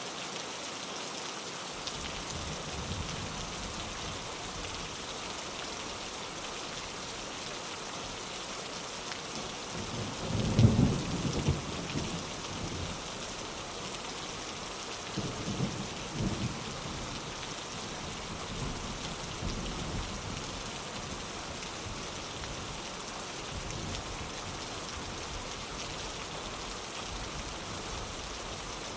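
Steady rain with thunder rumbling. The loudest rumble comes about a third of the way in, followed by a few weaker rolls.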